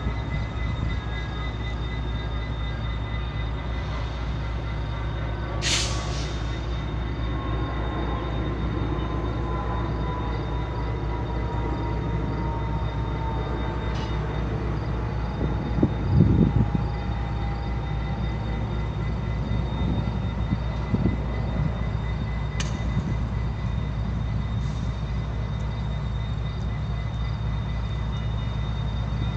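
Steady low rumble of an idling train, with a thin steady whine above it. There are a few sharp clicks and a short louder noise about sixteen seconds in.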